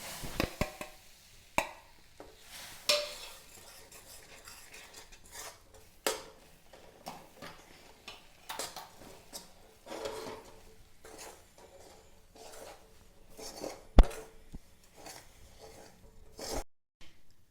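Spoon stirring and scraping in a pan or bowl with scattered clinks, mixing hot water into rice flour and gram flour for dough. One sharp loud clink comes near the end.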